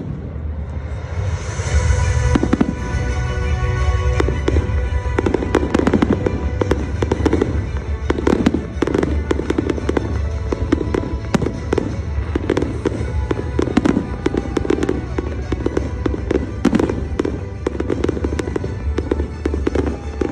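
Salute fireworks bursting in a dense, irregular string of bangs, several a second through most of it, with music playing underneath.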